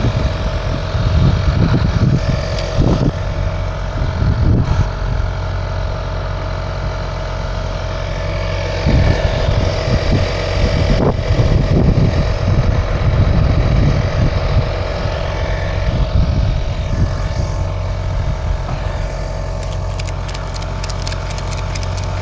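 Motor vehicle engine running steadily with an uneven low rumble. A quick run of ticking comes in near the end.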